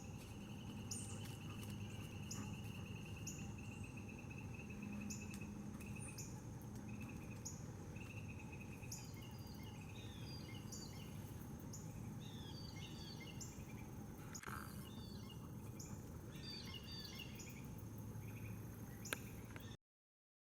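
Faint outdoor chorus of insects and small birds: a pulsing insect trill for the first several seconds, a short high note repeating about once a second, and a run of varied chirping bird notes through the second half. The sound cuts off suddenly near the end.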